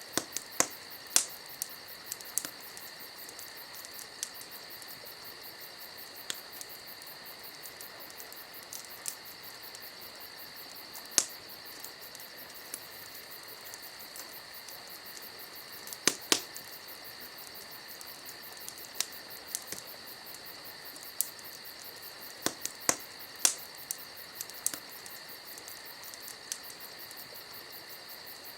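Crickets chirping steadily, with sharp pops and crackles from a wood campfire breaking in at irregular moments, a few in quick pairs.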